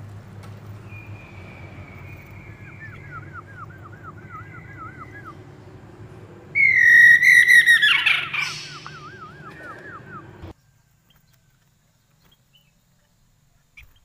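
Poksay mandarin laughingthrush singing: runs of quick looping whistled notes, about three a second, and long held whistles, with a loud call falling in pitch a little past halfway. The sound cuts off abruptly near the end.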